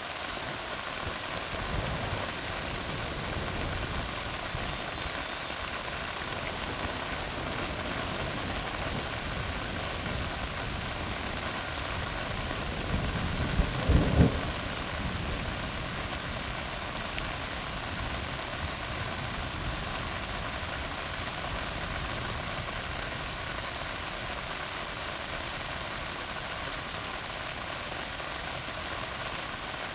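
Steady rain falling on a tar road, with a short, louder low rumble of thunder about halfway through.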